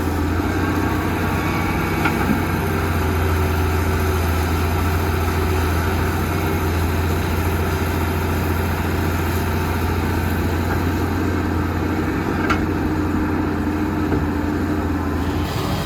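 Heavy diesel engine of construction machinery running at a steady speed, a continuous low drone with a couple of light clicks.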